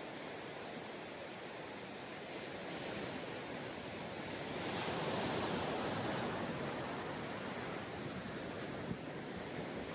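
Ocean waves washing onto a sandy beach, a steady rush of surf that swells to a peak about halfway through and then eases.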